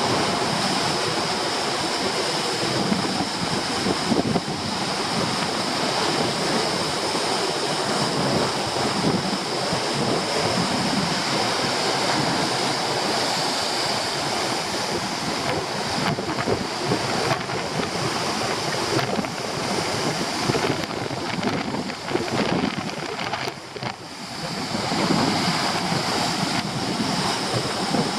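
Storm surf breaking and churning on a rocky shore, with strong wind buffeting the microphone. The noise is steady and dense, easing briefly a few seconds before the end.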